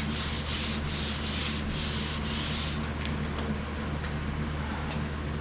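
Hand sanding by sandpaper on a painted sheet-metal body panel: quick back-and-forth hissing strokes, about two to three a second, that stop about three seconds in. The paper is cutting through old paint that was sprayed over dirt. A steady low hum runs underneath.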